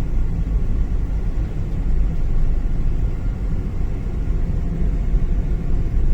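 Steady low rumble of a car's engine and tyres on the road, heard from inside the moving taxi's cabin.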